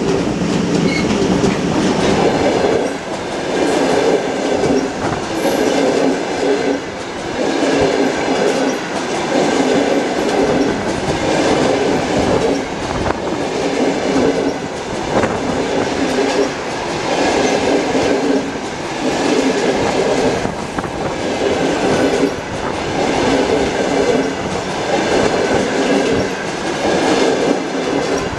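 Passenger coaches of a long-distance train rolling past close by, their wheels clacking in a loud, regular rhythm about every second and a half as bogie after bogie goes by, with a faint steady high whine above.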